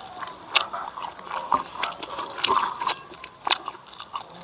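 A man chewing a mouthful of rice and smoked catfish close to the microphone, with a string of wet lip smacks and clicks.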